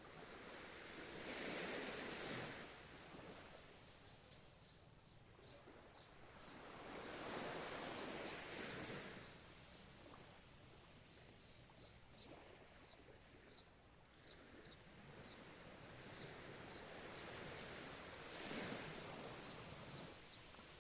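Ocean waves, faint: surf swells up and washes out three times. Between the waves there are runs of faint, quick, high-pitched chirps.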